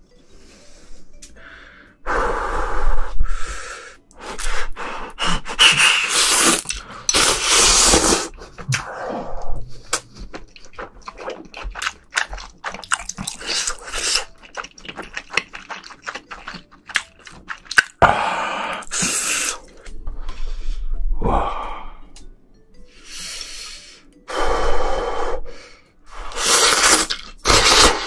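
Close-miked eating sounds of shrimp being chewed: irregular loud bursts of chewing and mouth noise with sharp clicks, broken by short pauses.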